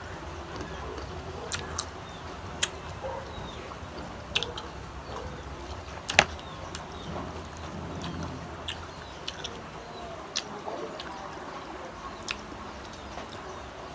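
Close-miked eating sounds: biting and chewing crisp unripe green mango, heard as scattered sharp crunchy clicks, the loudest about six seconds in.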